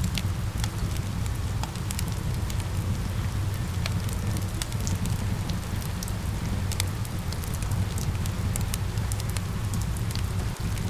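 Fireplace fire crackling, with sharp irregular pops scattered throughout, over a steady rush of falling rain.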